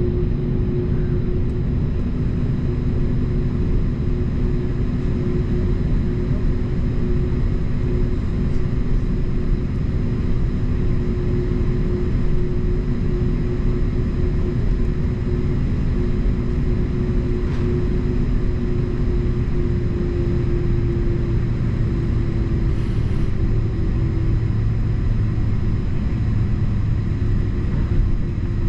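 Airbus A330-200 airliner's engines running steadily: a dense low rumble with a steady hum. The hum shifts to a lower, stronger tone near the end.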